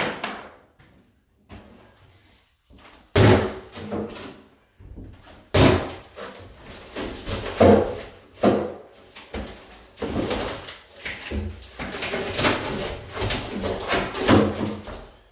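Wooden cabinet being pried and hacked apart: a few sharp bangs and knocks a couple of seconds apart, then a stretch of continuous scraping and rattling in a small room.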